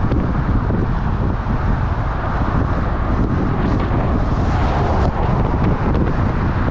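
Wind blowing over the microphone as a loud, steady rush, from riding a bicycle into the wind.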